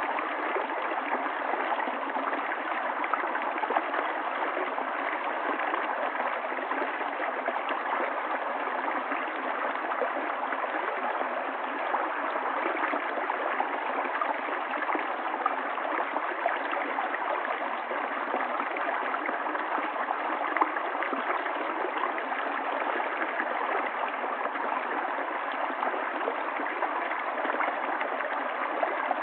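River water flowing over stones, a steady rush with fine bubbling and gurgling.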